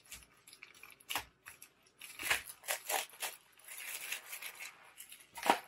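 A fat-eighth fabric bundle's plastic wrapping is pulled off by hand, crinkling and rustling in an uneven run of short scratchy sounds.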